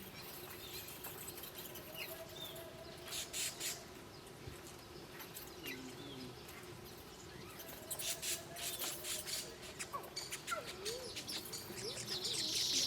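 Small wild birds chirping: two bursts of rapid, high chirps about three and eight seconds in, over faint background sounds, with a high buzzing haze starting near the end.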